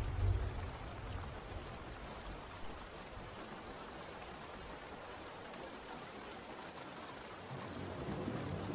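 Steady rain falling, an even hiss of many drops. A deep low rumble fades out in the first second and comes back softly near the end.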